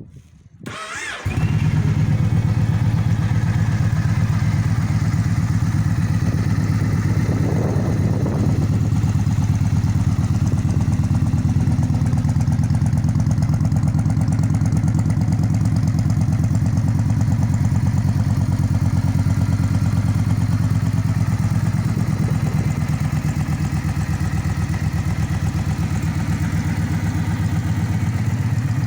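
Yamaha XV1900 Stratoliner's V-twin with a Freedom aftermarket exhaust starting up about a second in, then idling steadily.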